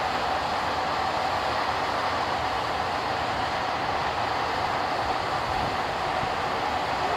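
Jet airliner engines running with a steady rushing noise and a thin steady whine, holding even throughout.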